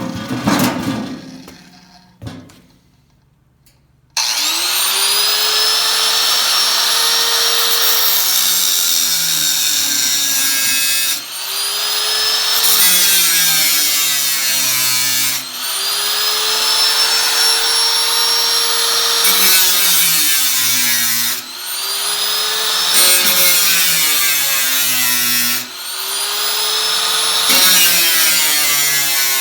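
Electric power tool working the sheet metal of a square tin can in repeated runs of a few seconds each. Each run starts with a rising whine as the motor spins up, holds steady with a harsh metallic hiss, and winds down between runs.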